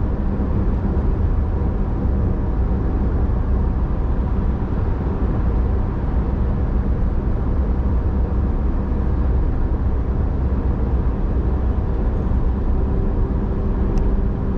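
Car being driven: a steady, even rumble of engine and road noise, strongest in the low end, with a brief click near the end.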